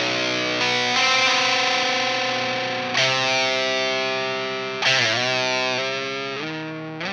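Fender Telecaster electric guitar tuned down to baritone pitch, strung with flatwounds and driven through an Idiotbox Power Drive overdrive pedal, strumming sustained distorted chords left to ring. There are fresh strums about a second in, about three seconds in and just before five seconds, a pitch bend around five seconds, and a slide up near the end.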